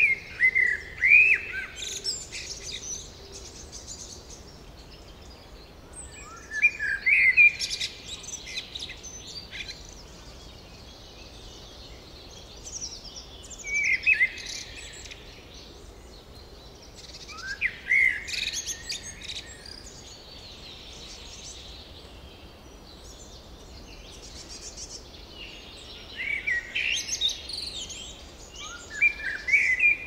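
Songbirds singing in short phrases of quick chirps and trills, a few seconds apart, with pauses between, over a faint steady background hiss.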